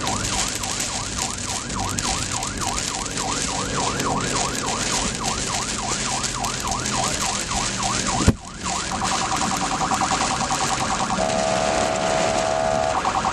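Emergency vehicle siren in a fast yelp, sweeping up and down about four times a second over a steady loud hiss. A sharp click comes about eight seconds in, after which the siren holds a steady pitched tone that breaks off twice.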